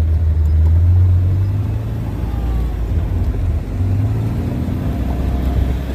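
Steady low rumble of a motor vehicle travelling, engine and road noise.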